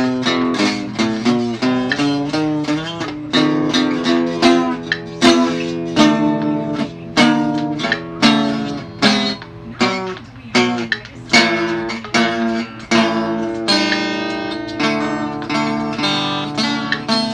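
Acoustic guitar music: a steady run of plucked and strummed notes.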